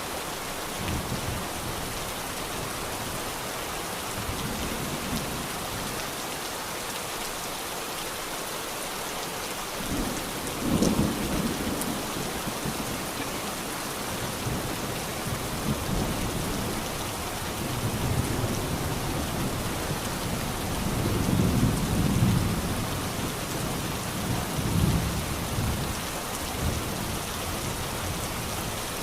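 Steady rain with thunder rumbling. The loudest rumble comes about a third of the way in, and a longer rolling rumble follows past the middle.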